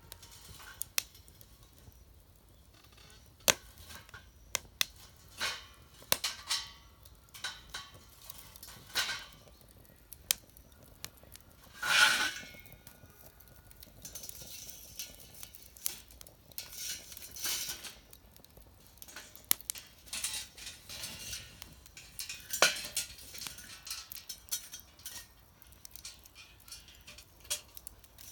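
Irregular clicks, knocks and light metallic clatter, with a louder scraping rustle about twelve seconds in and patches of rustling.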